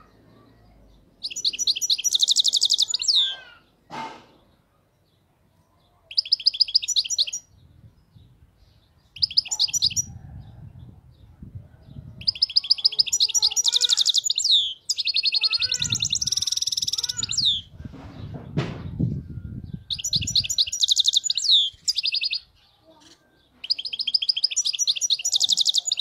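European goldfinch singing: about six bouts of fast, twittering song, each a couple of seconds long, with short pauses between them.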